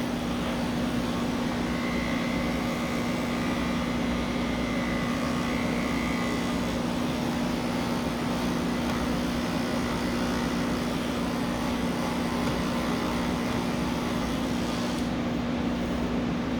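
Electric pet grooming clippers running with a steady hum while shaving a cat's coat; the higher hiss thins near the end.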